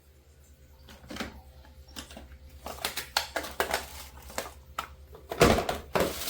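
Plastic fridge parts and containers being handled and set in place inside an open refrigerator: a run of irregular clicks and knocks, with a heavier thump about five and a half seconds in, over a faint steady low hum.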